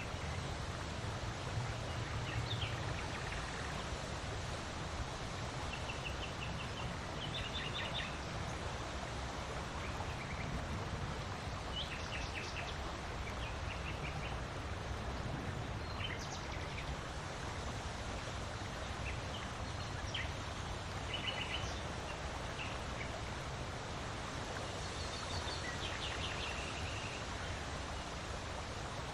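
Steady wind blowing with a low rumble, while small birds give short chirps and trills now and then.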